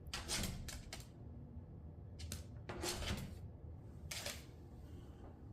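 A few soft clicks and rustles in small clusters: one group near the start, more around the middle, and a last one about four seconds in.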